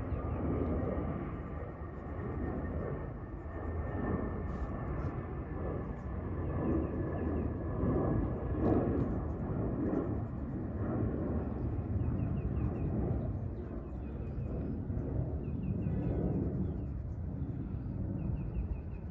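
Outdoor ambience with a distant airplane passing overhead: a steady low rumble that swells slightly around the middle, with faint short high chirps now and then.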